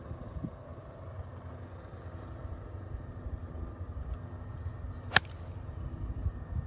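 A golf iron striking the ball from the fairway: one sharp crack about five seconds in, over a steady low rumble.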